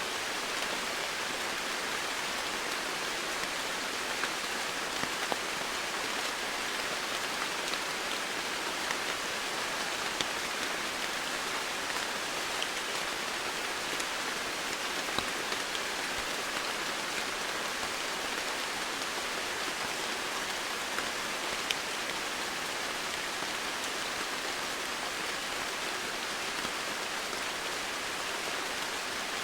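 Steady heavy rain falling on surfaces, a dense even hiss with scattered individual drops ticking through it.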